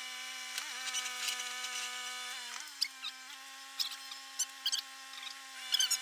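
A steady motor hum that dips slightly in pitch now and then, with scattered short high squeaks and clicks over it.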